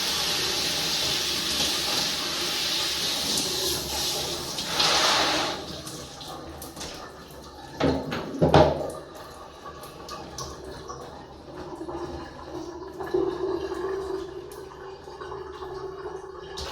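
Tap water running steadily, with a brief louder surge just before it is shut off about five seconds in. A couple of sharp knocks follow near eight seconds, then quieter handling sounds.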